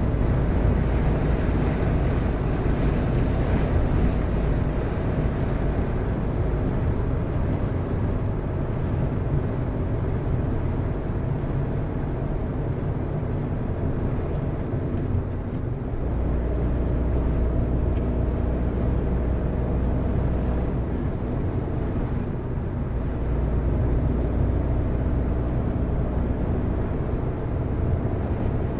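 A car driving along at a steady pace: continuous engine and tyre rumble, growing deeper about halfway through.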